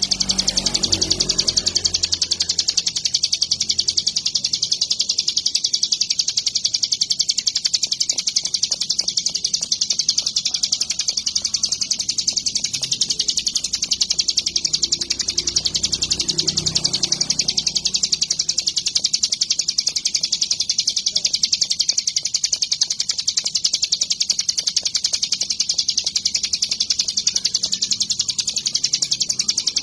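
Hill prinia (ciblek gunung) singing a very rapid, unbroken, high-pitched chattering song at a steady level.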